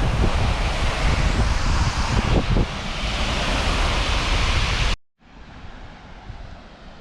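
Wind buffeting the microphone outdoors: a loud rushing with gusty low rumble, cut off sharply about five seconds in and followed by a much quieter steady breeze.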